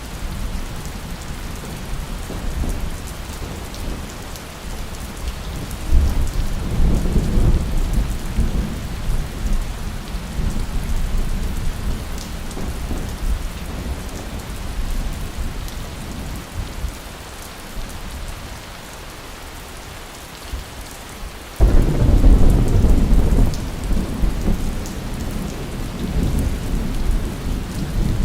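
Steady rain falling, with thunder rumbling twice: a roll starting about six seconds in, then a louder one that breaks in suddenly a little over twenty seconds in.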